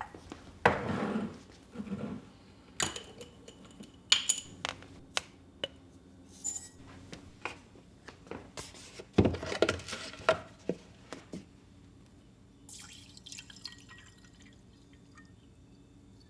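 Irregular small clicks and knocks, like glass being handled, with two short stretches of liquid splashing or pouring, about a second in and again around nine seconds in.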